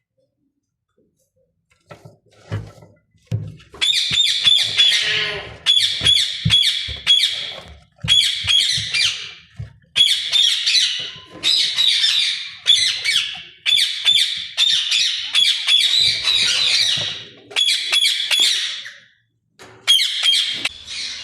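Ringneck parakeet squawking: a long run of harsh, rapidly repeated calls in bursts of a second or two with short breaks, after a few dull knocks at the start.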